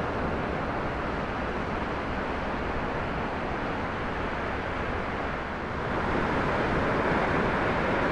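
Ocean surf rushing on the shore, with wind buffeting the microphone; the rush swells louder about six seconds in as a wave breaks.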